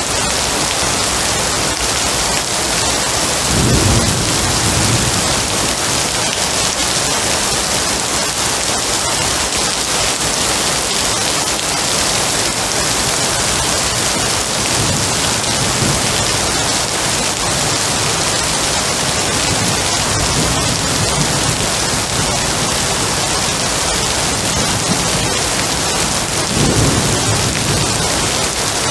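Steady rain with thunder, two low rumbles of thunder, one about four seconds in and another near the end.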